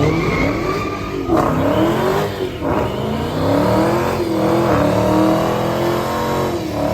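Car engine revving repeatedly, its pitch climbing and dropping several times, with a longer held rev in the middle.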